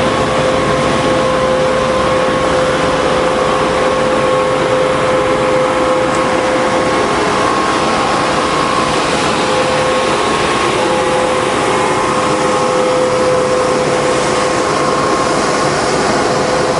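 Road sweeper running steadily: a continuous rushing noise with a steady whine from its fan or engine.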